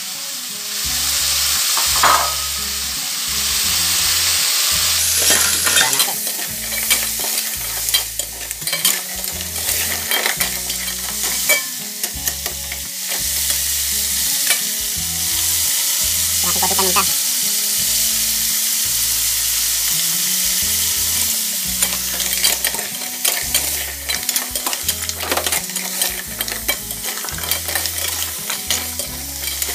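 Fresh mussels in their shells sizzling in a hot aluminium pot of sautéed vegetables, stirred with a metal ladle; a steady frying hiss with frequent knocks of shells and ladle against the pot.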